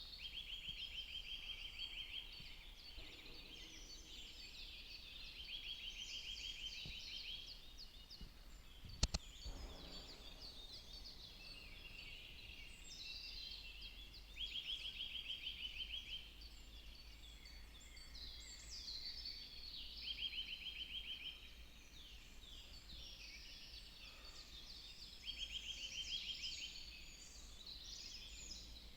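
Several birds singing in a forest: one repeats a fast, even trill lasting about two seconds, five times, among overlapping chirps and whistles from others. A single sharp click about nine seconds in.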